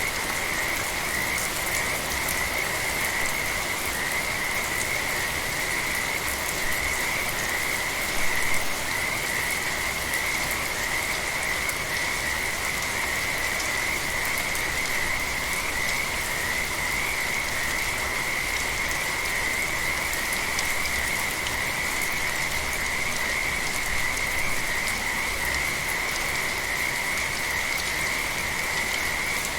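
A dense chorus of frogs calling steadily in a high, continuous trill, over an even hiss of light rain.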